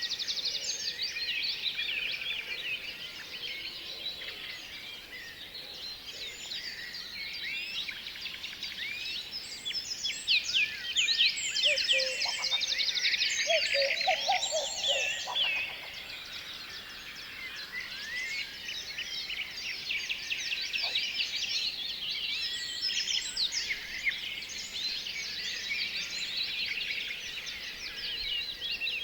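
A flock of small songbirds chirping all at once, a dense chorus of many overlapping high chirps that grows busiest and loudest about halfway through. A few lower-pitched calls come in around the middle.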